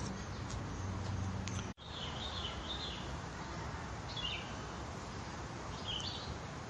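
Steady outdoor background noise with birds chirping in short, high phrases several times. The sound drops out for a split second just under two seconds in.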